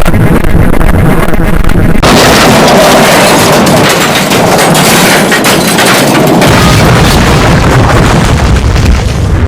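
Loud, continuous blasting and crackling noise, turning harsher and hissier about two seconds in: an explosion-like attack sound effect.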